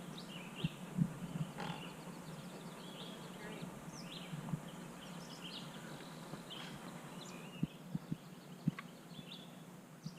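Faint outdoor birdsong: many short high chirps and trills from several small birds, with a few soft low thumps about a second in and again near eight seconds.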